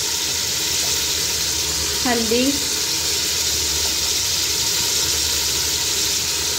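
Beef and onions sizzling steadily in hot oil in a pressure cooker.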